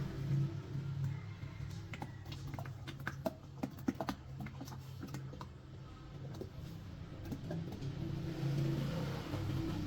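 A quick run of light clicks and taps in the middle, over a low steady hum.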